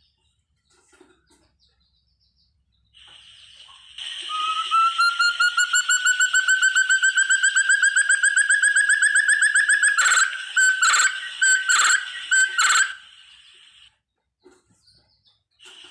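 Forest quail (puyuh hutan, the 'terung') calling: a rapid run of whistled notes, several a second, slowly rising in pitch for about six seconds, then four or five louder separate notes before it stops.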